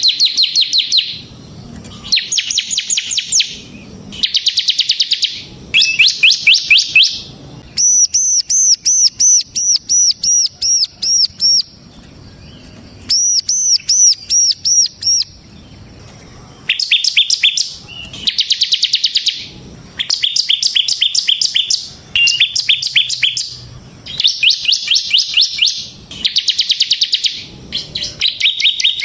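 Bar-winged prinia (ciblek semi) singing loudly in its rapid trilling 'ngebren' style: bursts of very fast high notes about a second long, repeated every second or two. About 8 seconds in, and again about 13 seconds in, it switches to a slower run of clear, evenly spaced high notes, about four a second.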